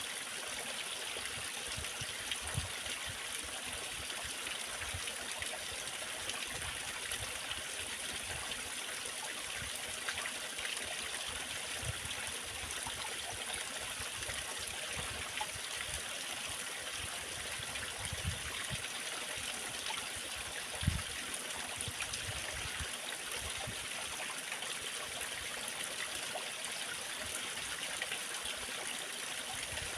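Waterfall running steadily, a continuous rush of falling water, with scattered soft low thuds and one sharper thud about 21 seconds in.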